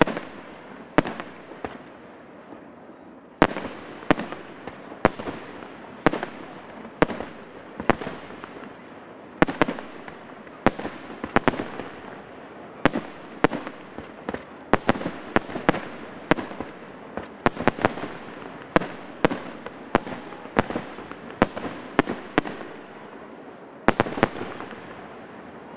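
Aerial fireworks display: a steady run of sharp shell bursts, one or two a second and sometimes in quick pairs, each with an echoing tail, over continuous crackling.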